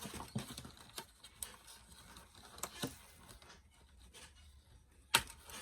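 Light handling noise of small doll accessories being picked up and turned over: scattered soft clicks and rustles, with one sharper click about five seconds in.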